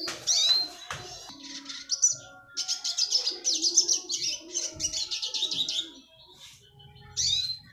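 A small songbird, the retsiski, singing: a few sharp down-slurred notes, then a long run of fast, closely packed chirps from about two and a half seconds in, and one more sharp note near the end.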